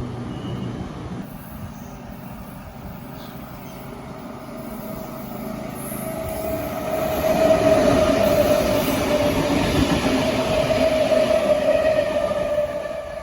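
Electric passenger train running past on the rails, growing louder from about five seconds in, with a steady high squeal that starts about six seconds in and holds to the end.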